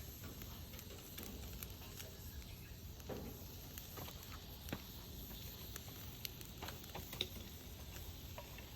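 Wood bonfire crackling: scattered sharp snaps and pops over a low steady rumble, with two louder pops, one about halfway through and one a couple of seconds later.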